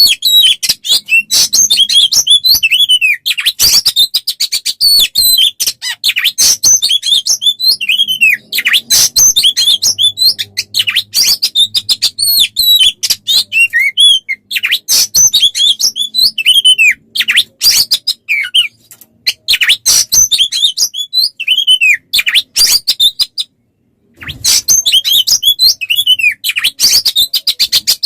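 Songbird singing a loud, fast, unbroken song of rapid chirps and ticks mixed with downward-slurred whistles. It is a 'masteran' recording of the kind played to caged oriental magpie-robins (kacer) to teach them song. The song breaks off for a moment a little before the last few seconds, then starts again.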